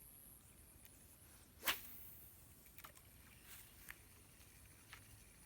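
A spinning rod swished in a cast, one sharp swish about a second and a half in, followed by a few faint clicks.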